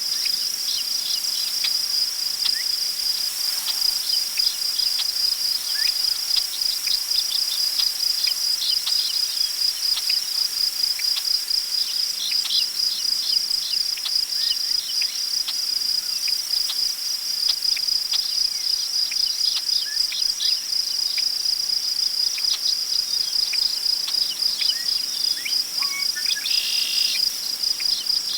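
Crickets chirping in a dense, steady, fast-pulsing chorus, with scattered short bird calls over it and one brief, fuller bird call near the end.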